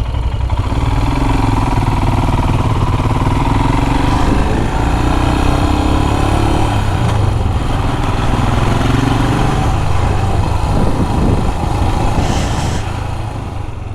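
Single-cylinder Royal Enfield Himalayan engine running at road speed, with wind rushing over the microphone. The engine note rises and falls a little as the bike rides along.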